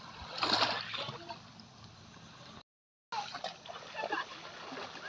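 Water splashing and trickling, loudest in a short splash about half a second in, then fainter sloshing with small clicks; the sound cuts out completely for about half a second past the middle.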